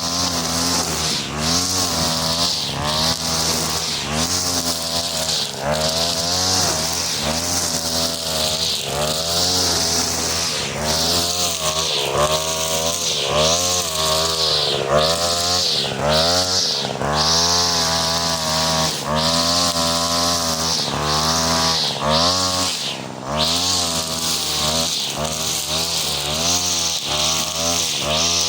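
43cc two-stroke brush cutter running at high revs with a four-line 2.5 mm nylon trimmer head. The engine pitch dips and recovers over and over, about once a second, as the head is loaded and unloaded, under a steady high hiss from the whirling line.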